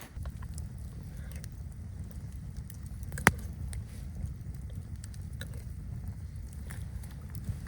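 Low, steady wind rumble with scattered small crackles and one sharp snap about three seconds in.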